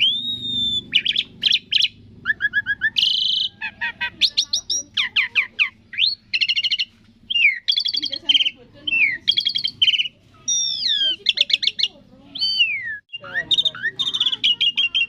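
Asian pied starling (jalak suren) singing a long, varied song: a quick run of whistles, rapid trills and rising and falling glides, with only brief pauses.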